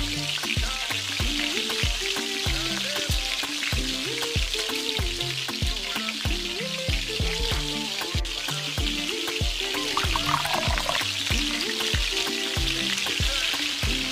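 Red amaranth leaves sizzling in hot oil in a steel kadai as they are stirred with a spatula, a steady frying hiss. Background music with a steady beat plays over it.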